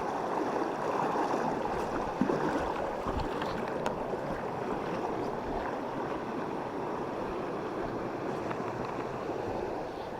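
Steady rushing of a river current, with a few faint knocks.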